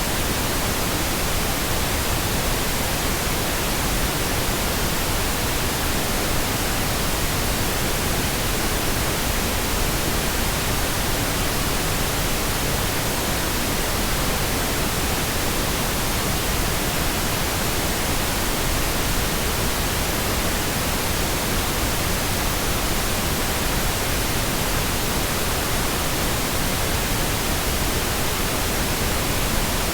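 Steady pink noise: an even, unbroken hiss spread across the whole range from low to high, with no changes or events.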